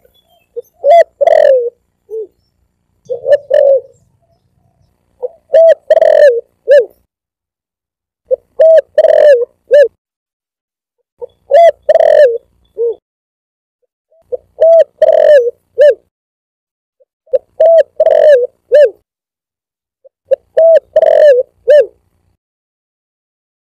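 Spotted dove (tekukur) cooing: a short phrase of several low coos, repeated about every three seconds, eight times in a row.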